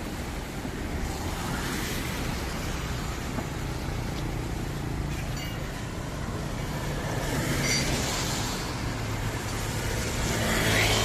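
A car engine running steadily amid road traffic, with passing vehicles swelling up about two seconds in, around eight seconds and again near the end.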